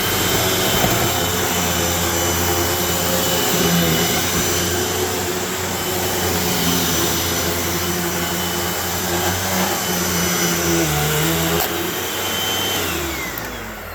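Vacuum cleaner running on shag carpet, a steady motor whine and rush of air whose pitch shifts slightly now and then. Near the end the motor is switched off and winds down with a falling whine.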